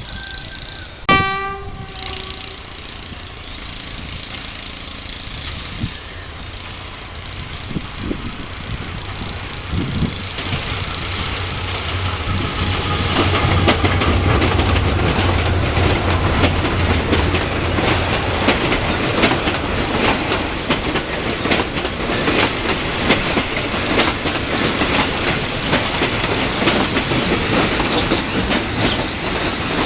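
A train horn gives one short blast about a second in. From about ten seconds a train passes close by, with a low engine drone and the wheels clattering over the rail joints, growing louder and then holding steady.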